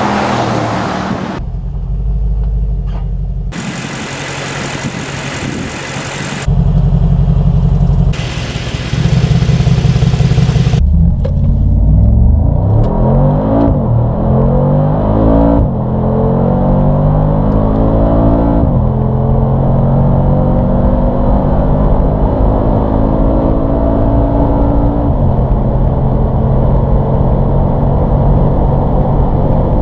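Mercedes-AMG G63's twin-turbo V8 under hard acceleration. The engine note climbs in pitch and drops back at each upshift, several times, then holds a steady loud drone at high speed.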